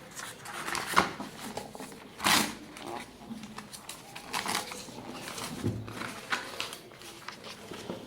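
Paperback exam book being handled and leafed through, giving a series of paper rustles and page swishes. There is a sharper snap about a second in and a louder swish a little after two seconds.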